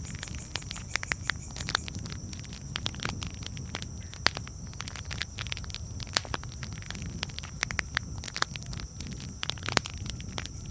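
Wood campfire crackling: irregular sharp pops and snaps, some louder than others, over a steady low rumble of the burning fire.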